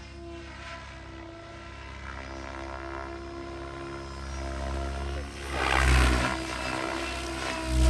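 Radio-controlled helicopter flying, its motor and rotor giving a steady tone. There is a louder whoosh of rotor noise about six seconds in and another at the end.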